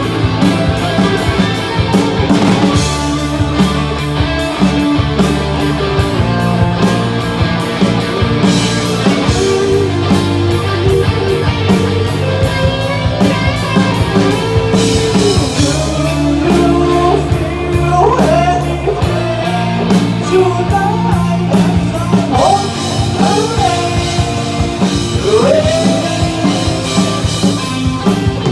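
Rock band playing live, with drum kit and electric guitars. In the second half a lead line slides and bends between notes over the drums.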